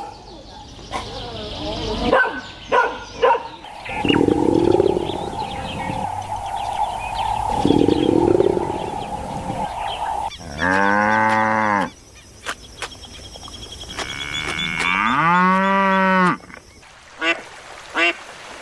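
A sequence of farm animal calls, including two long, drawn-out pitched calls, each rising and then falling, about halfway through and again later.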